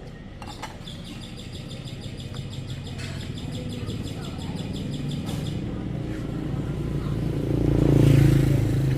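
A motor vehicle engine approaching and passing, growing louder to its loudest about eight seconds in. A high, rapid chirping runs through the first half.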